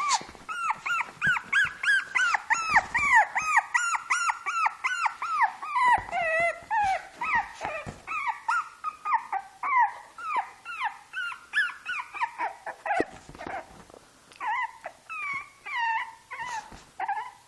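Two-month-old Shih Tzu puppy crying: a fast, steady run of short high-pitched yelps, each rising and falling in pitch, about two to three a second, with a few short breaks near the end.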